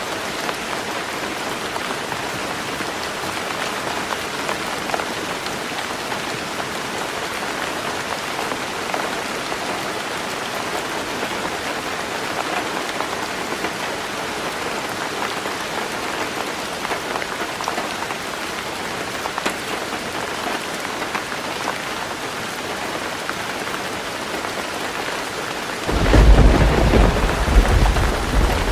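Heavy rain falling on a roof, a dense, steady hiss. Near the end a loud, low rumble of thunder breaks in suddenly and carries on under the rain.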